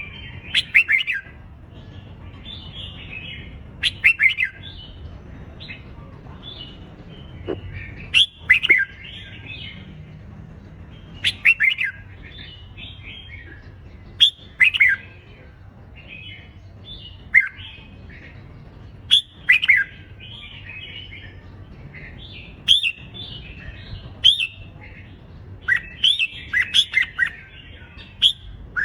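Red-whiskered bulbuls singing their competitive fighting song: loud, short warbled phrases every two to three seconds, with fainter phrases from other birds overlapping between them over a steady low hum.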